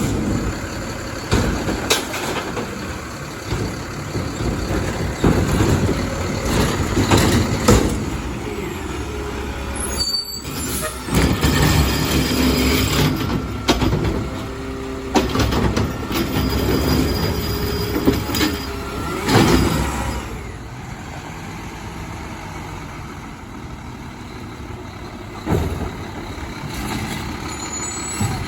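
Diesel refuse truck at work: engine running under a string of metal clanks and knocks with squealing tones and air-brake hiss. The clatter is busiest in the first two-thirds and then settles to steadier running.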